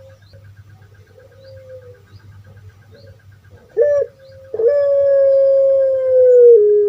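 Puter pelung dove singing: a few quiet short coos, then a short loud note about four seconds in and a long drawn-out call from about four and a half seconds that holds one pitch and sags slightly near the end.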